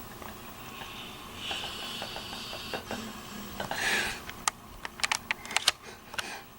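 A sleeping dog breathing through its nose: a hissy breath, then a louder snuffling exhale about four seconds in, followed by a quick run of sharp clicking mouth and tongue smacks.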